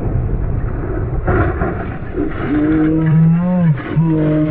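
Car engine and road noise, a steady low rumble, with a long held pitched tone about halfway through and another near the end.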